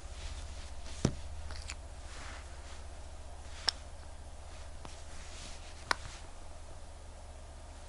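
Three sharp small clicks, a couple of seconds apart, with faint scratching between them, from small tools handling a quartz wristwatch during a repair, over a low steady hum.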